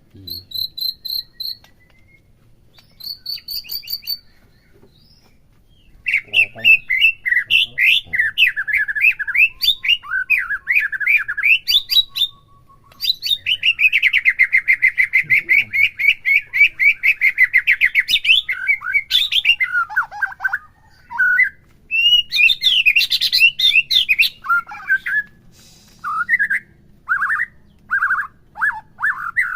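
White-rumped shama singing a varied song: short high chirps and whistled phrases, a fast continuous trill lasting several seconds about halfway through, then a run of short repeated notes near the end.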